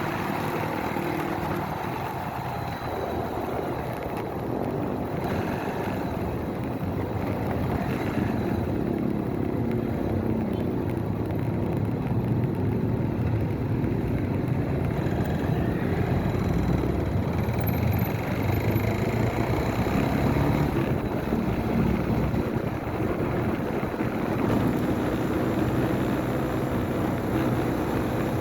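Motorcycle engine running during a ride, with road and wind noise; the engine's pitch rises and falls as the rider changes speed.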